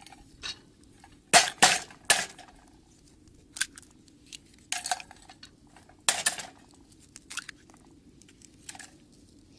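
Cooking utensils knocking and clinking against cookware in irregular, sharp strikes, with a cluster of louder knocks about one and a half seconds in and again about six seconds in.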